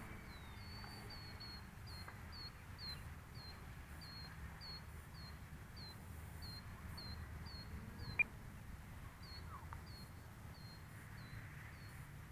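Faint, short, high chirps repeating about twice a second from a small animal, over a low steady rumble, with one sharp click about eight seconds in.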